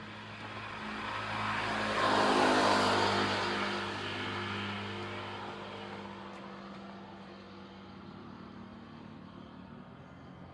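A car driving past: its engine and tyre noise grow to the loudest point about two and a half seconds in, with the engine pitch rising, then fade away over the next few seconds.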